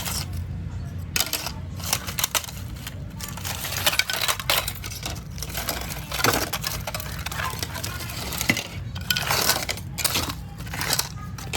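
Hand tools tapping and scraping on a hard surface: an irregular run of small clicks, knocks and scrapes over a steady low hum.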